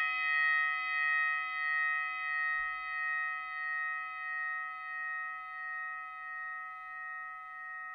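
A struck bell ringing on after a single strike, several clear tones fading slowly, with a steady wavering beat about twice a second.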